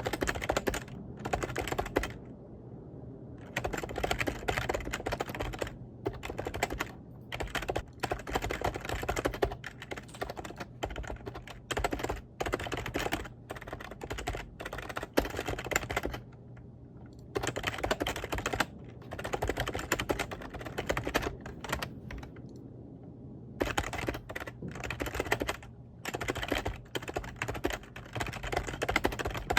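Computer keyboard being typed on quickly, in runs of rapid key clicks broken by short pauses, over a low steady hum.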